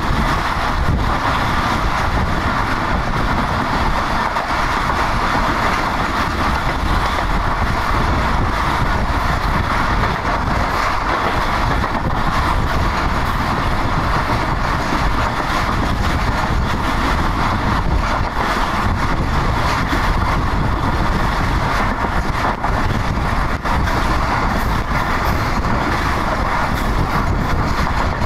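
Steady noise of a passenger coach running at speed, heard from its open window: wheels running on the rails with rushing air, and wind buffeting the microphone.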